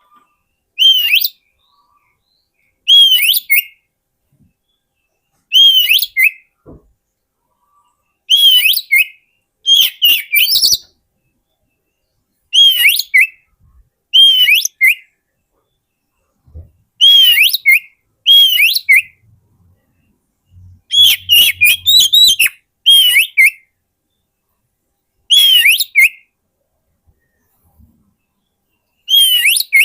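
Oriental magpie-robin (kacer) singing. Short, loud whistled phrases come every two to three seconds with silence between, each a bending whistle followed by quick sharp high notes.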